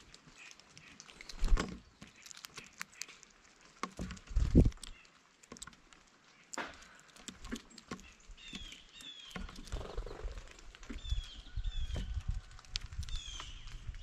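Birds at a feeder: a few sharp knocks and low thumps in the first half, then from about eight seconds in a run of short, high, falling chirps repeating every half second or so over a low rumble.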